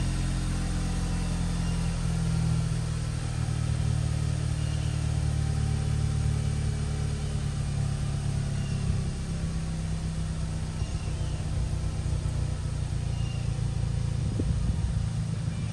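2016 VW Passat 1.8T turbo four-cylinder running through a Flowmaster FlowFX straight-through muffler with a steady, low exhaust note. It is a lot quieter than with no muffler and has no drone.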